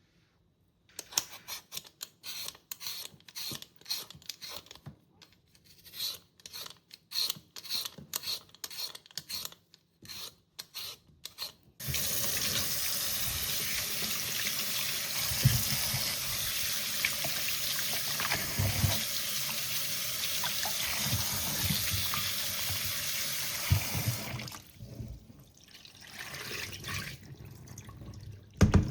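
Kitchen tap running steadily into a sink for about twelve seconds, with a few knocks of things handled under the stream. Before it comes a run of short, irregular clicks and clatters, and after it scattered quieter handling sounds ending in one sharp knock.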